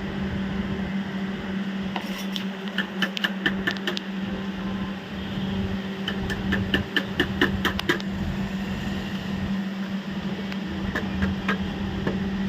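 Rapid runs of sharp metallic clicks and taps, hand tools working on a kitchen mixer's parts, in two bursts of a couple of seconds each and a few more near the end, over a steady low hum.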